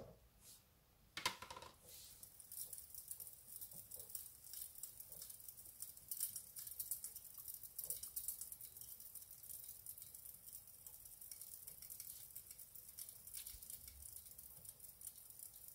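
Log fire crackling, played back from a fireplace DVD through a TV's speakers: a faint, dense run of small pops and snaps that starts about two seconds in, after a single click.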